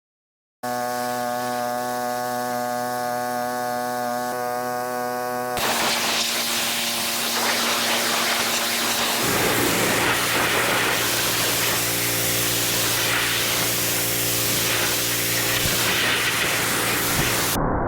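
Pressure washer running with a steady hum. About five seconds in, the trigger opens and the water jet sprays with a loud, even hiss over the continuing motor hum.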